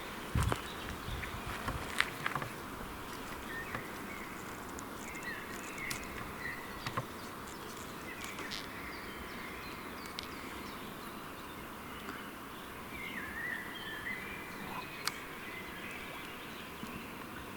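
Outdoor forest ambience: a steady insect hum with a few short chirping calls over it, and a few light clicks in the first seconds.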